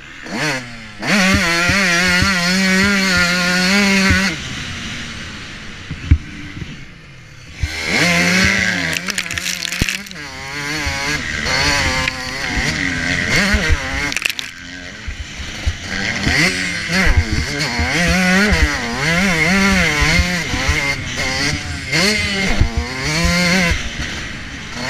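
Motocross bike engine held at high revs for a few seconds, easing off for a few seconds, then revving up and down again and again as the rider works the throttle, with scattered knocks.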